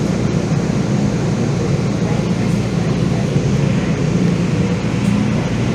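Steady low rumble of a Calgary Transit vehicle running, heard from inside.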